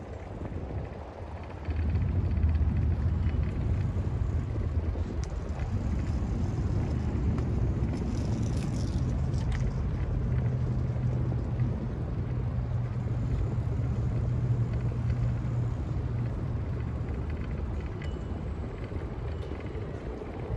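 An engine running steadily with a low hum. It comes in about two seconds in and its pitch rises slightly around halfway through.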